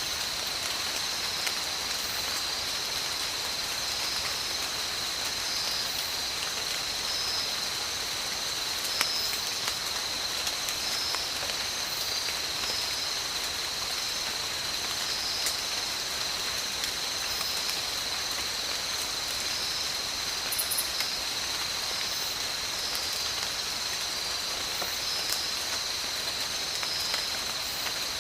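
Steady tropical rain falling, with scattered drop ticks. A constant high-pitched whine and short chirps repeating about every second or two carry on through it.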